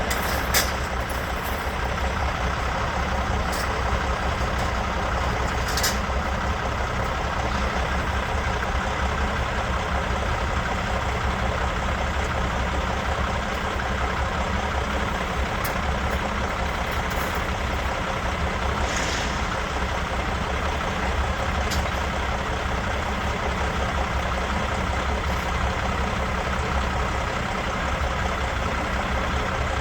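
Vehicle engine idling steadily, with a few short knocks over it.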